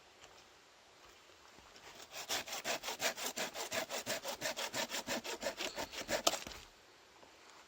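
Hand saw cutting through firewood in rapid, even back-and-forth strokes. It starts about two seconds in and stops abruptly about four seconds later.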